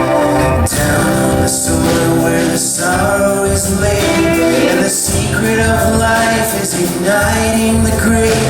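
Live band playing a slow contemporary Christian song, with singing over the instruments and a few drum hits.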